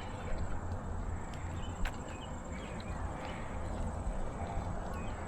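Insects trilling in one steady, high-pitched note, over a low rumble, with a single click about two seconds in.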